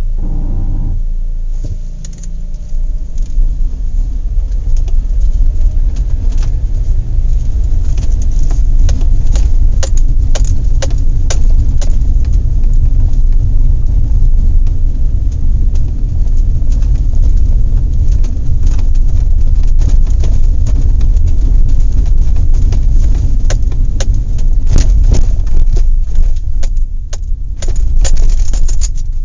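Horse-farm activity: a steady heavy low rumble with many irregular sharp clicks and knocks, which grow denser after the first several seconds.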